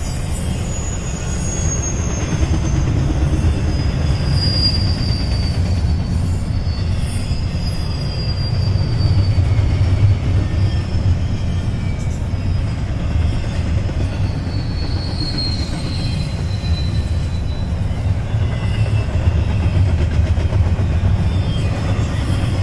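Double-stack intermodal freight cars rolling past on the rails: a steady, loud low rumble of wheels on track, with high-pitched wheel squeals that slide down in pitch several times.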